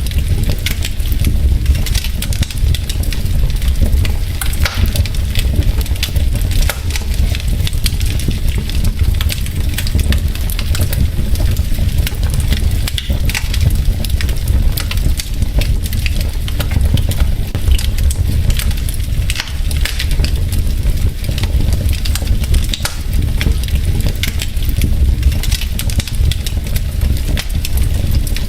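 Wood fire burning in a fireplace: logs crackling with many small irregular pops over a steady low rumble.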